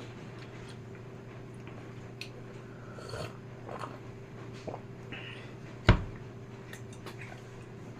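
Quiet eating sounds of fried noodles being chewed, with small mouth and utensil clicks and one sharp knock about six seconds in, over a steady low hum.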